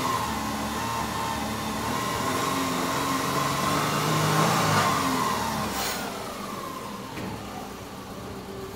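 Subaru Impreza 1.6 flat-four engine running at raised revs, then falling back to a quieter idle about five to six seconds in, with a short click near then. The engine is still cold, so its changeover from petrol to LPG is not yet complete.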